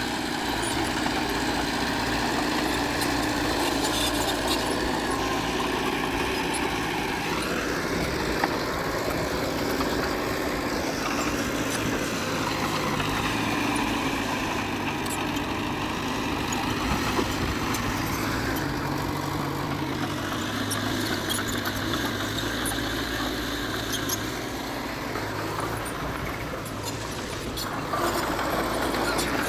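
Diesel engine of heavy earthmoving machinery running steadily, its revs rising and falling several times as the machine works.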